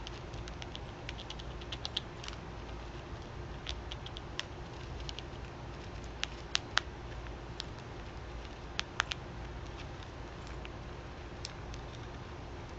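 Irregular sharp ticks and taps, a few louder ones around the middle, from small animals pecking and nibbling at scattered feed, over a steady low background hum.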